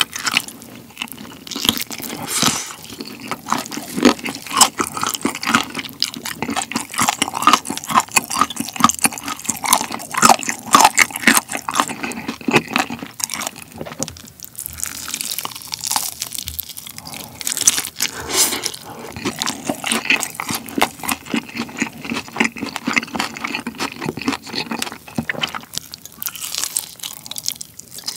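Close-up eating sounds of a sticky, sauce-glazed Korean fried chicken drumstick: meat being bitten and torn off the bone, then chewed with wet mouth noises and crunches of the fried coating, many small clicks in quick succession.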